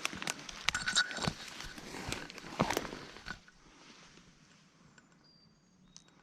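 Irregular crunching and rustling of someone moving through dry leaves and brush, stopping about three and a half seconds in. A few faint high bird chirps follow near the end.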